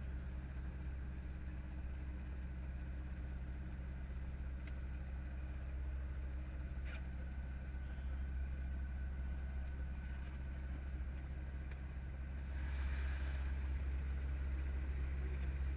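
Training helicopter's engine and rotor running steadily, heard from on board as a constant low drone. Near the end a rushing hiss joins in and stays.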